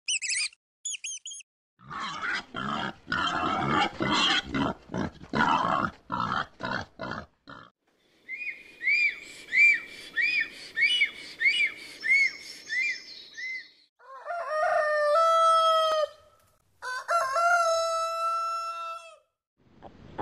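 A run of animal calls: a few high chirps, then several seconds of harsh, noisy grunting pulses, then a quick series of arched peeping notes. It ends with a rooster crowing twice, each crow about two seconds long, dropping in pitch and then held steady.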